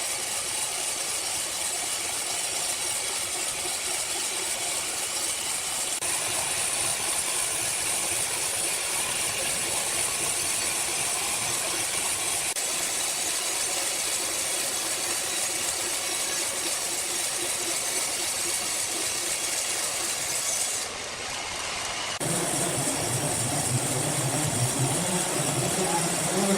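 Sawmill machinery running with a steady mechanical noise. About 21 s in it dips for a moment, then a lower engine hum sets in.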